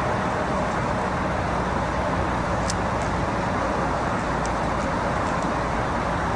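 Steady rush of road traffic noise, with a few faint ticks.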